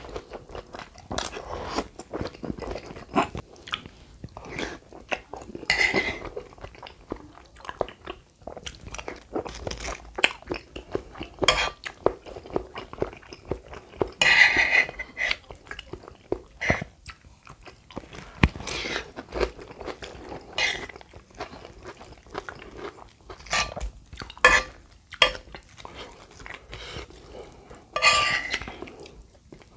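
Close-miked chewing and crunching while eating lontong padang with red kerupuk crackers, rice noodles and curry sauce. The sound is a dense run of irregular wet mouth clicks with a few louder bursts.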